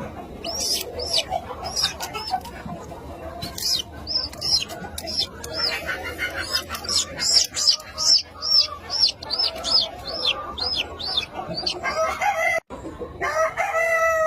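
Chick peeping repeatedly in short high calls, about two a second; near the end a rooster starts crowing.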